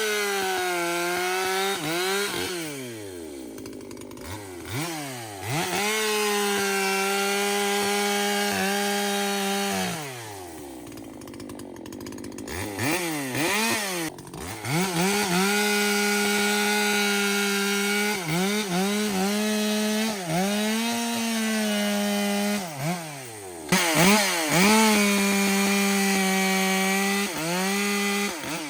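Ported Echo two-stroke chainsaw cutting wood at full throttle in four long passes. Between cuts it drops toward idle and revs back up. Its high-speed needle has just been backed out so it runs slightly rich.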